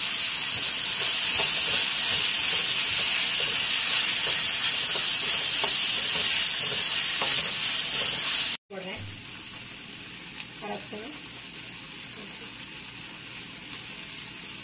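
Chopped onions and tomatoes sizzling steadily in oil in a stainless steel wok, stirred with a wooden spatula. A little over halfway through the sound drops out for a moment and comes back much quieter.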